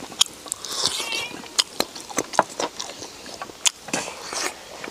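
Close-up mouth sounds of eating braised beef hoof by hand: irregular wet smacks and clicks of biting and chewing the gelatinous meat.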